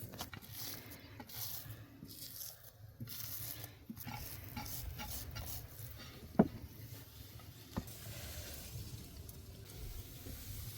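Kitchen handling sounds: scattered light clicks and rustling as food is worked, with one sharp knock about six seconds in and a smaller knock a second later.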